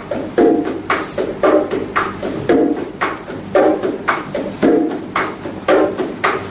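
Bongos played in the martillo pattern: a steady run of hand strokes on the two drums, the macho and the hembra. A deeper open tone comes about once a second, with lighter slaps and taps between.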